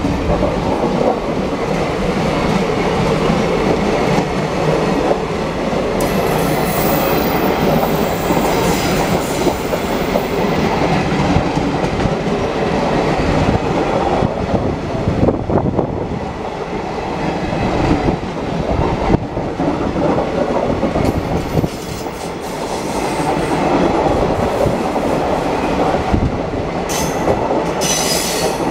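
Indian Railways passenger coaches of an express train rolling past at speed: a steady rumble of wheels on rail with a repeated clickety-clack as the bogies cross rail joints.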